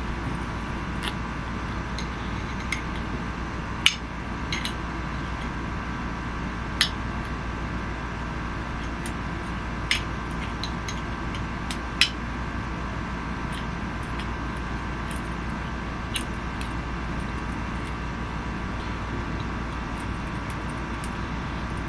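Scattered light clicks and clinks of a small hand tool and metal parts as the rear sight screws are worked out of a Glock-style BB pistol's slide, a few seconds apart and irregular, over a steady background hum.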